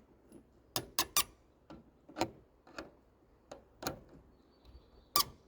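Hand tools at work on a truck fitting: a series of sharp, irregularly spaced clicks and light knocks, about ten in five seconds, with a faint high squeak near the end.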